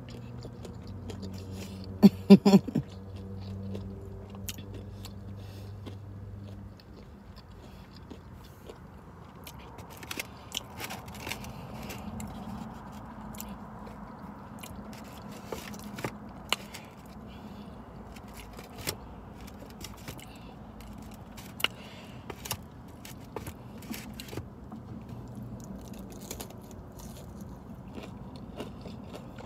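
A person chewing and biting breaded fried shrimp, with wet mouth clicks and smacks scattered throughout. There are a few sharper, louder strokes about two seconds in.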